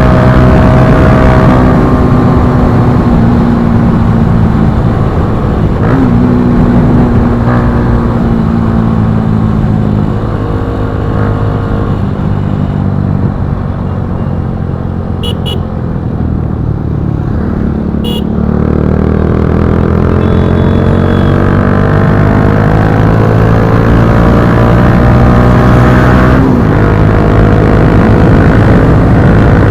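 Bajaj Pulsar NS160's single-cylinder engine through an Akrapovic slip-on exhaust, being ridden. The engine note runs steady, slows off through the middle with a couple of brief sharp clicks, then climbs again with gear changes, one of them near the end.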